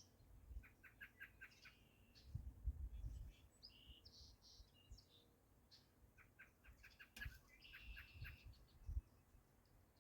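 Birds singing faintly: two runs of quick, evenly repeated short chirps, about a second in and again near seven seconds, with other call notes between them. Soft low rumbles come and go underneath.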